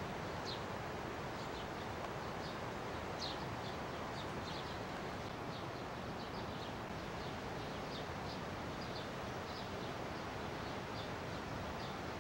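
Small birds chirping, short high chirps coming irregularly every second or so, over a steady noisy background.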